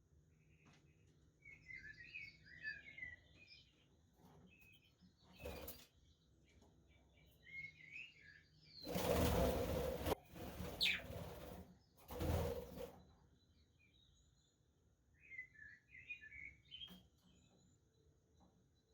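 Budgerigars chirping in short, quick warbling clusters, three times. Between them come a few short rustling, whooshing bursts, the loudest about nine seconds in.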